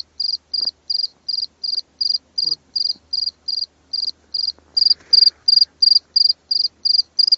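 A cricket calling: short, high-pitched chirps in a steady rhythm of about three a second, each chirp made of quick pulses, growing louder about two thirds of the way through.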